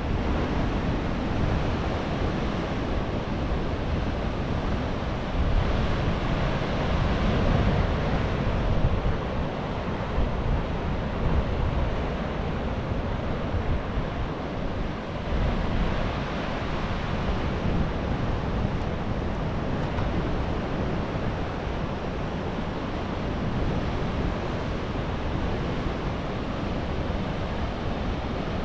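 Atlantic surf breaking and washing on the shore in a continuous rush, swelling louder a few times, with wind on the microphone.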